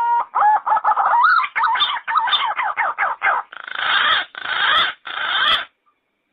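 Yellow-footed green pigeon calling: a long whistled note ends just after the start, then a quick run of warbling whistles that wobble up and down in pitch, then three longer, harsher notes, after which it stops short near the end.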